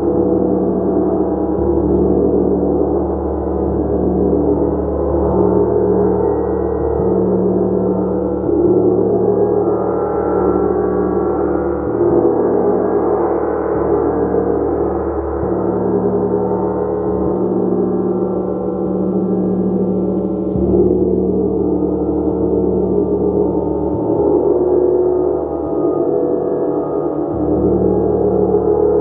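Gong playing as a steady, sustained wash of many overlapping tones, with the deepest tones shifting every few seconds.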